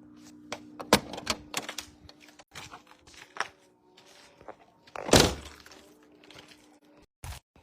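A string of sharp knocks and thuds, the loudest about a second in and about five seconds in, over a steady low hum that cuts out near the end.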